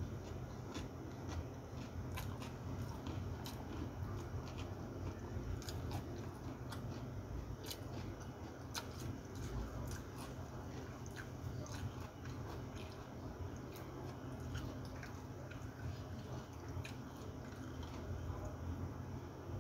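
A person chewing and eating by hand close to the microphone, with many small sharp mouth and food clicks scattered throughout, over a steady low hum.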